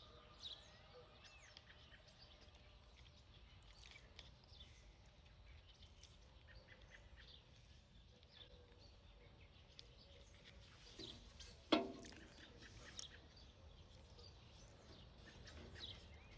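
Quiet background with faint, scattered bird chirps, and one sharp tap about twelve seconds in.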